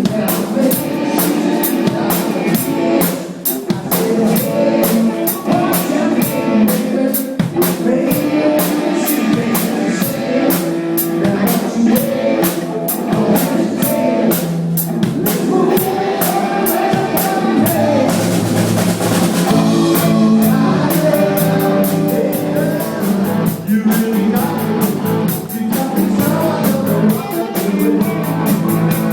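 Live band playing rock music, the drum kit keeping a steady beat under guitar.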